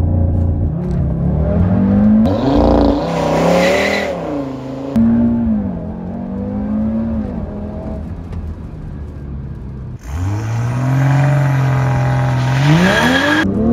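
Turbocharged sports sedan engine pulling hard through full-throttle launches. Its pitch climbs and drops back at each upshift over several spliced runs, with a steep rise near the end.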